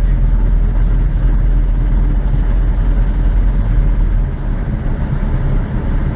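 Light aircraft's piston engine and propeller droning steadily inside the cockpit. The deepest part of the drone drops off about four seconds in.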